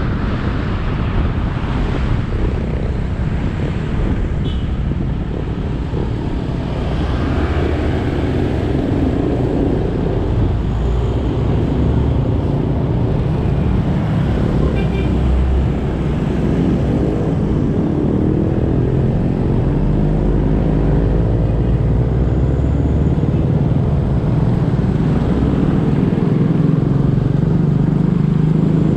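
Motorcycle engine running under way, its pitch rising and falling through the middle stretch, over a steady rush of road and wind noise.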